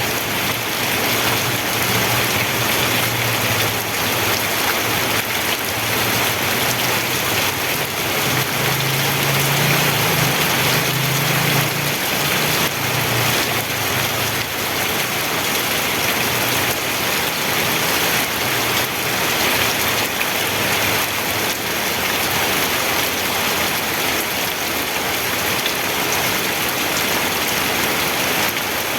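Steady rain: an even, dense hiss of falling drops. A low rumble swells and fades during the first half.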